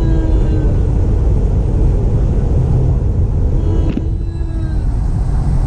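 MTR East Rail Line R-Train electric multiple unit running along the line: a steady, loud low rumble of the train in motion, with a faint whine twice and a single sharp knock about four seconds in.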